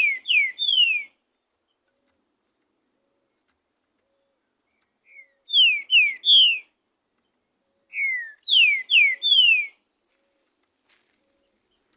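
Green-winged saltator (trinca-ferro) singing: three phrases of three or four loud, clear whistled notes, each note sliding downward, with pauses of a few seconds between phrases.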